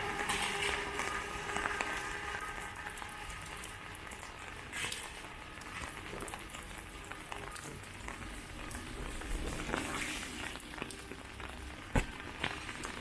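Steady rain with scattered drops pattering, and a single sharper drop or tap near the end.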